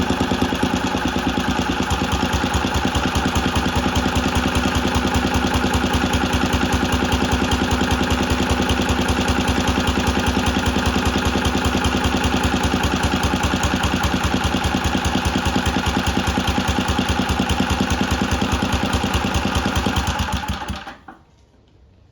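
Tecumseh 3.5 hp side-shaft single-cylinder four-stroke engine running at a steady speed with an even firing beat, on a freshly readjusted carburetor and cleaned, re-gapped spark plug. About 21 seconds in it shuts off and the sound dies away quickly.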